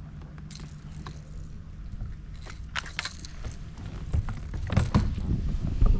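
Scattered clicks, knocks and rattles of fishing gear being handled aboard a kayak, with a few heavier bumps against the hull near the end.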